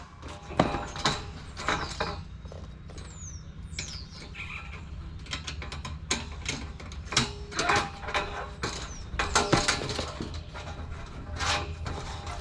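Galvanized sheet-metal panels of a raised garden bed being handled and fitted together: irregular clanks, taps and rattles, some knocks leaving a brief metallic ring.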